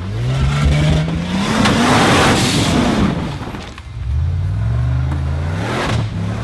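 Off-road Jeep engine revving hard, its pitch climbing, with a loud rush of noise at the peak. It eases off briefly about two-thirds of the way in, then revs up again.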